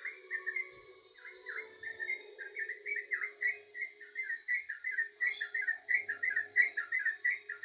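Yellow-vented bulbul (trucukan) singing vigorously: a fast, continuous string of short, bubbly notes that grows denser and louder about a third of the way in.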